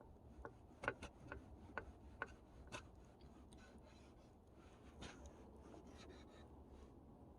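Faint handling sounds: several light clicks and taps in the first few seconds, then soft scratching and rubbing.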